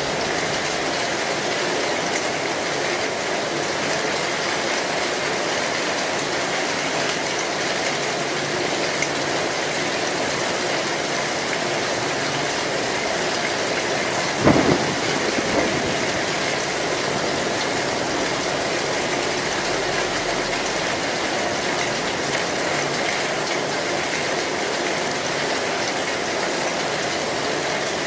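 Heavy rain drumming steadily on an old metal roof, with one short, sharp crack about halfway through and a smaller knock just after it.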